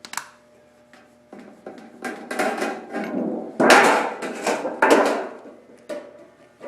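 Sheet-metal duct being cut with hand snips: a run of crunching, clicking cuts, with the sheet rattling, loudest about midway.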